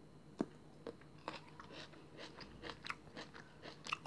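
A green gooseberry being bitten and chewed: a few separate small crunches in the first second and a half, then a quicker run of soft crunches and wet clicks.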